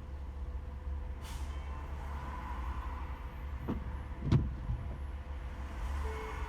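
Car drive noise in slow rain-wet traffic: a steady low road-and-engine rumble. A short hiss comes about a second in, and two sharp thumps come a little past the middle, the second one the loudest.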